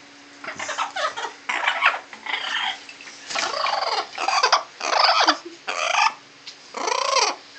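Parrot cackling its harsh, crazy laugh in a string of short bursts, about one a second.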